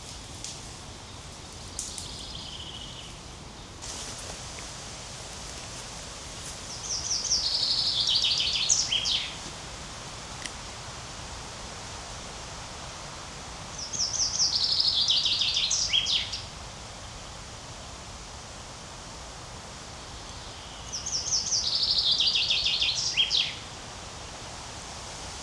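A songbird singing the same phrase three times, about seven seconds apart: each a quick run of notes falling in pitch that ends in a short flourish, lasting about two and a half seconds, over steady outdoor background noise.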